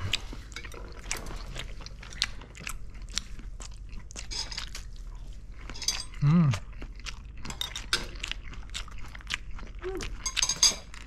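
Close-up chewing and crunching of Korean fried snacks (twigim), with many short crackles and clicks. A brief hummed voice sound comes about six seconds in.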